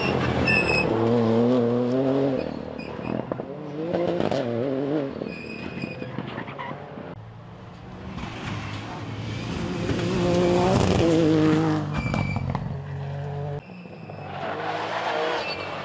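Rally car driven hard on a special stage: the engine revs up and drops back several times with gear changes, with bursts of tyre squeal.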